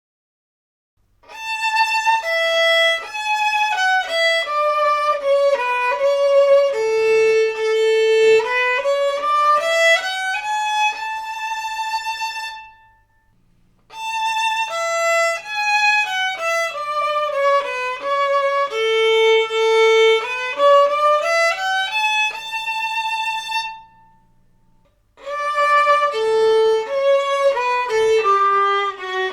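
Newly made violin bowed in a phrase that steps down note by note to a held low note and climbs back up. The phrase is played twice with a short break between, and a third time begins near the end.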